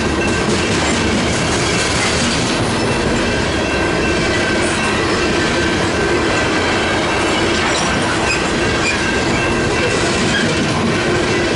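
Freight train of covered hopper cars rolling steadily past close by: a continuous rumble and clatter of steel wheels on rail, with a thin steady wheel squeal on top.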